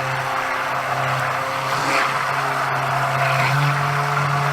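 Stick blender motor running steadily, mixing cold process soap batter, its pitch rising slightly about three and a half seconds in.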